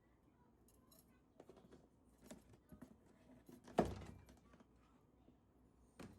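Light clicks and taps of small objects being handled and set down, with one louder knock a little past the middle and another near the end.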